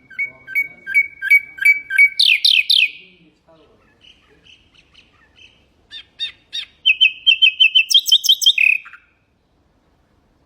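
Nightingale singing two phrases of rapidly repeated whistled notes: the first alternates two pitches at about four notes a second and ends in a few quick rising notes, and the second is a fast trill that ends in a falling note. It stops about nine seconds in.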